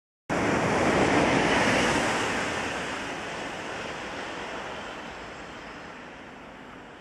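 Rushing wheel-on-rail and air noise of an electric locomotive that has just run past and is moving away. It cuts in suddenly and fades steadily as the locomotive recedes.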